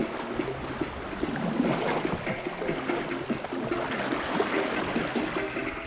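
River water splashing and gurgling steadily around a kayak, with many small irregular splashes.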